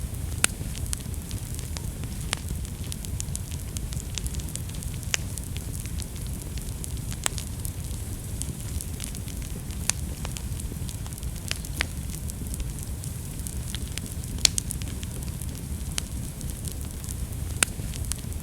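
Wood fire burning in a fireplace: a steady low rumble of flames with frequent small crackles and several louder pops from the burning wood.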